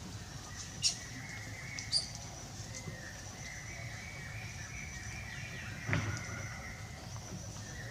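Outdoor ambience with two short high chirps about one and two seconds in, over a faint steady background, and a single sharp knock about six seconds in.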